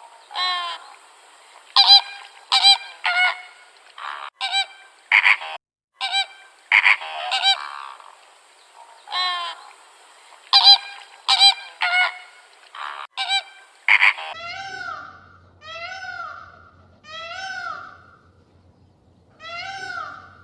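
Geese honking loudly in irregular, overlapping calls; about two-thirds of the way through it cuts to a different animal giving short, evenly repeated calls, about one a second.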